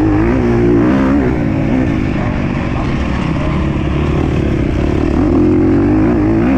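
Motocross bike engine running hard, its pitch rising and falling as the throttle is worked, over a steady low rumble.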